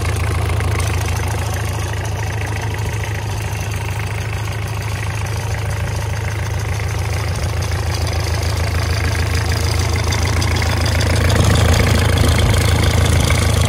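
Isuzu 4JG2 four-cylinder diesel engine idling steadily, getting a little louder about eleven seconds in.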